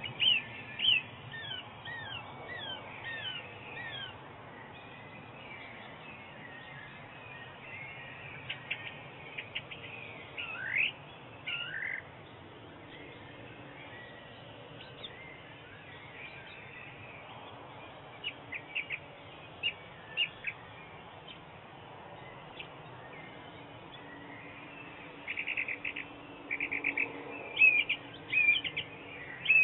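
Several songbirds chirping and calling over a steady background hiss, in quick short chirps and a few falling whistles, coming in clusters and busiest in the last few seconds.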